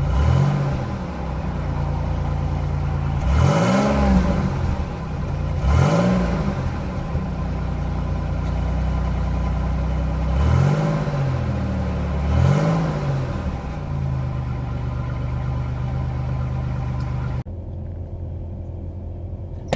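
A car's engine and exhaust idling steadily, revved quickly up and back down five times. It turns suddenly quieter near the end.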